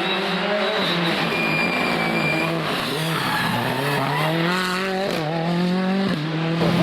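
Rally car engine under hard driving: its revs fall about three seconds in, then climb steadily, with a quick drop at a gear change about five seconds in before pulling high again.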